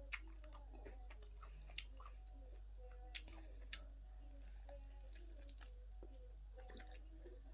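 A person chewing and biting into spicy chicken wings close to the microphone: scattered wet mouth clicks and smacks, a few of them sharper, over a steady low electrical hum.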